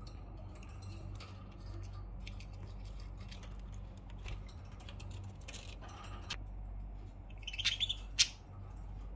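Pet budgerigars giving short chirps and squawks among scattered light clicks and taps, over a steady low hum; the loudest calls come about seven and a half to eight seconds in.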